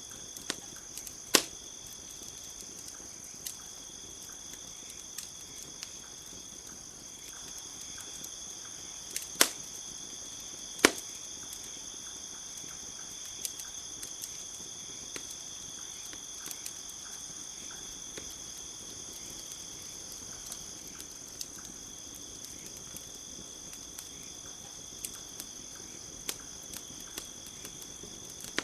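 Campfire crackling, with scattered small snaps and three loud sharp pops, one about a second in and two close together near the middle, over a steady high chorus of crickets.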